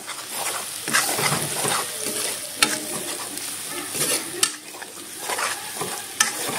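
Onions frying in hot oil in a metal wok, sizzling steadily, while a steel ladle stirs them, scraping along the pan and clinking against it a few times.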